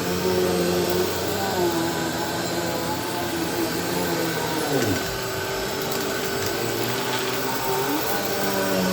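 Bissell Powerforce Helix Turbo Rewind upright vacuum cleaner running on a room's floor, its motor pitch wavering as it is pushed along and dipping briefly about five seconds in.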